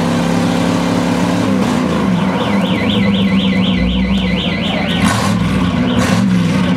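Chevrolet Camaro engine running under load during a burnout, its note shifting about a second and a half in. From about two seconds in, a high warbling tone rises and falls about three times a second for roughly three seconds. Two short sharp sounds come near the end.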